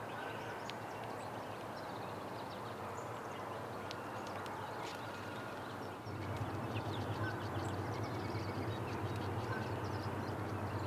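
Backyard birds chirping and twittering in short high notes over a steady background noise; about halfway through a low hum gets louder.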